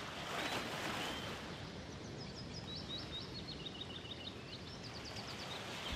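A bird chirping a quick run of short high notes a few seconds in, over a steady background hiss.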